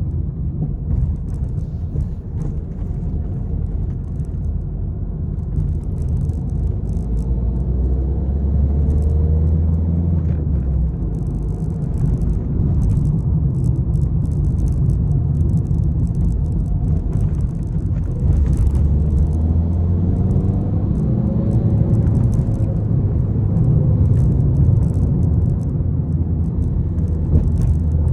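Peugeot 301 driving hard over a rough road: deep road and tyre rumble, the engine rising in pitch as it accelerates a couple of times, with frequent rattles and clicks.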